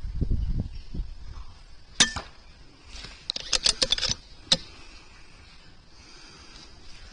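A single sharp crack from a .22 AGT Vixen 2 PCP air rifle about two seconds in, followed by a quick run of metallic clicks and clinks and one last click. Wind buffets the microphone at the start.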